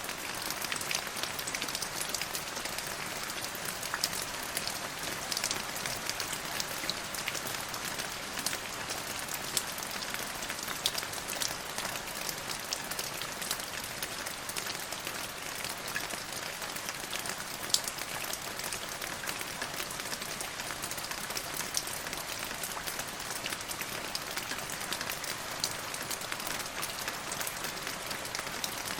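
Steady rain with a dense patter of individual drops, an occasional drop landing louder.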